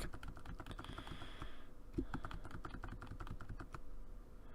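Computer keyboard keys clicking in quick, irregular taps, over a faint steady hum.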